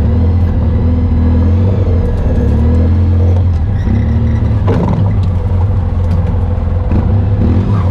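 Off-road vehicle engine running steadily under way on a dirt trail, a loud low drone whose pitch shifts a little as the throttle changes.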